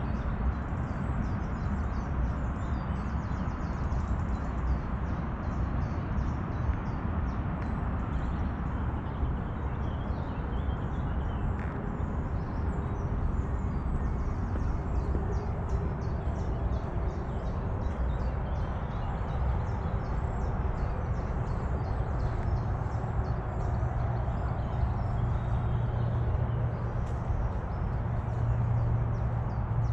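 Small birds singing and twittering repeatedly over a steady low rumble of outdoor background noise, with a low hum growing louder near the end.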